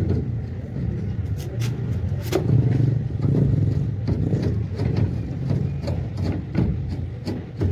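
A vehicle engine running with a steady low rumble, with irregular sharp metal knocks and clanks over it.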